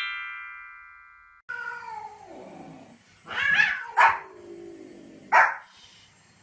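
A chiming sound effect rings out and fades over the first second and a half. Then a dog gives a long, falling whine, followed by three short, sharp barks.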